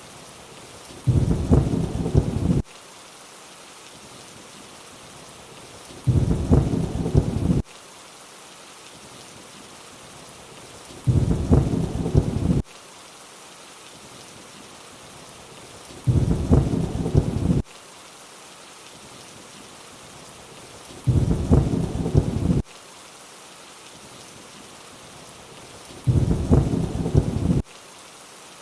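Steady rain hiss, broken by a short burst of low thunder rumble every five seconds, six in all. Each burst lasts about a second and a half and starts and stops abruptly, repeating at a perfectly even spacing like a looped recording.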